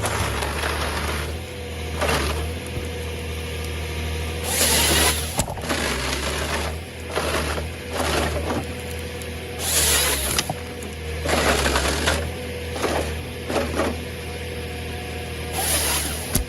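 Excavator engine running steadily while working on tree stumps, with bursts of hiss about every five to six seconds, under background music.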